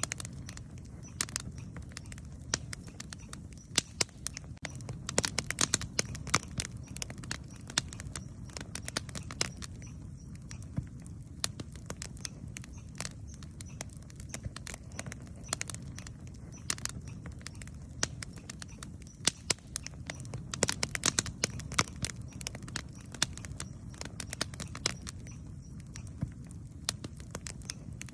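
Wood campfire burning, with a low steady rumble of flame and irregular sharp crackles and pops, thicker in a few flurries.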